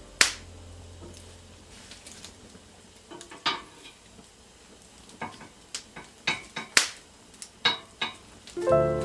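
Irregular clinks and knocks of cutlery and dishes, about a dozen separate strikes, the loudest right at the start. Music comes back in near the end.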